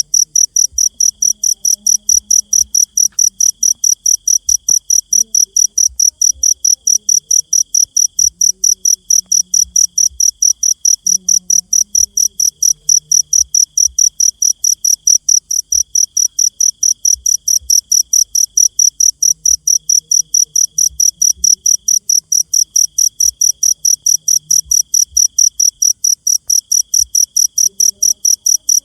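Cricket chirping loudly and evenly at about four high-pitched chirps a second, with a fainter insect trill coming and going behind it in stretches of a couple of seconds.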